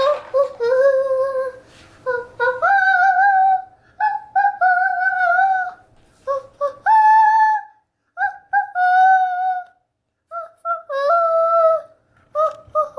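A child singing a wordless tune, a string of held, steady notes with short breaks between them.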